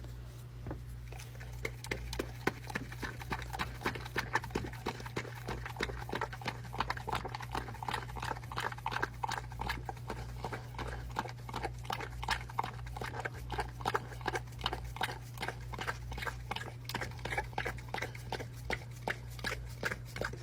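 A dog licking and eating from a pup cup: rapid, irregular wet lapping clicks, several a second, going on steadily throughout.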